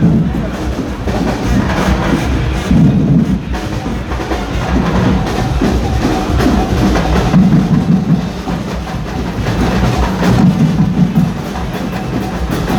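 Carnival percussion band playing: drums pounding out a dense, continuous rhythm with sharp clicking strokes over it.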